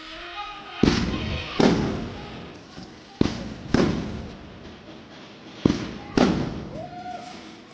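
Fireworks going off: six sharp bangs in three pairs, each bang dying away in a rumbling echo.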